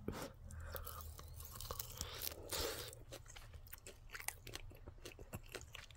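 A person chewing a crispy barbecue chicken wing, with faint crunches and small wet clicks scattered throughout and a short breath-like hiss about two and a half seconds in.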